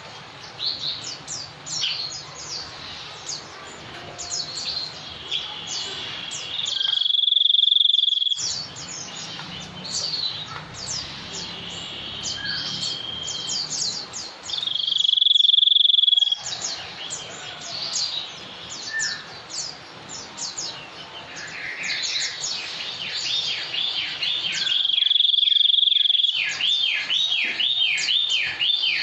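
Songbird calling, the bird the title names as the 'sniper' bird: long, steady, high whistles about every eight seconds, and near the end a quick run of a dozen or so falling notes. Dense short chirps and a steady insect-like trill run underneath.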